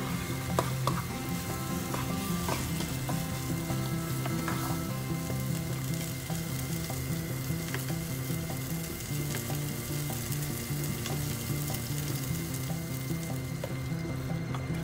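Chicken and curry spices sizzling as they fry in a small pot, with a wooden spoon stirring and now and then clicking against the pot. A low, repeating background music line plays underneath.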